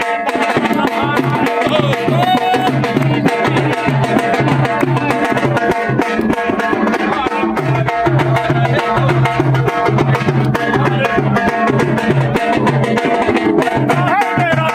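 Indian folk music: a hand drum keeps a quick, steady beat under a wavering melody line and a repeating low drone.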